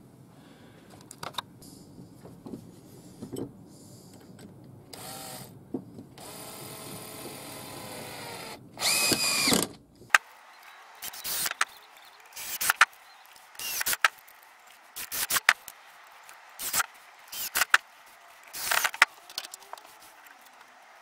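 Power drill run in short bursts, about one a second, after a longer steady run that ends rising in pitch, with light knocks of handling beforehand.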